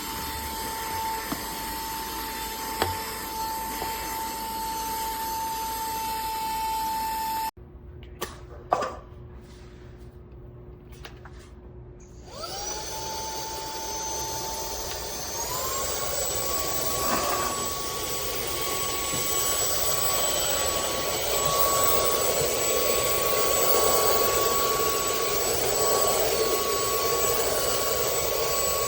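Cordless handheld vacuum running with a steady high-pitched motor whine that cuts off abruptly about seven seconds in. After a few quieter seconds with a couple of clicks, a handheld vacuum starts up. Its whine climbs, steps higher in pitch about fifteen seconds in, and then runs steadily.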